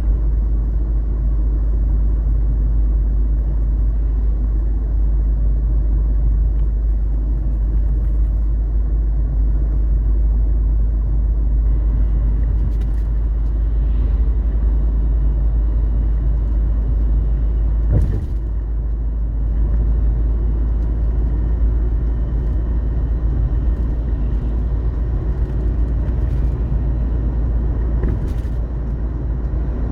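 Steady low rumble of wind and road noise from a moving vehicle, with a sharp knock about two-thirds of the way through and another near the end.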